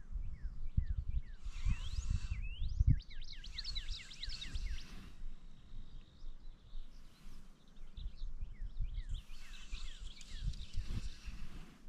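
Songbird calling in two bouts of rapid, short chirping notes, over gusty wind buffeting the microphone; the wind rumble is loudest in the first few seconds.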